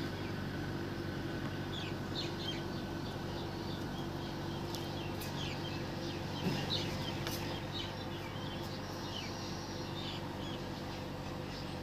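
Outdoor rural ambience: faint, scattered bird chirps over a steady low hum.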